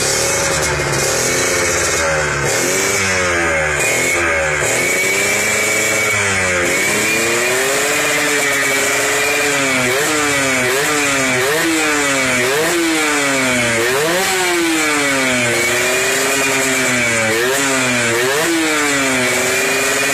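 Yamaha RXZ two-stroke single-cylinder engine revved repeatedly through a Yon'z Racing aftermarket exhaust, the pitch rising and falling with each blip of the throttle. The revs come slower at first and quicker and sharper from about halfway through.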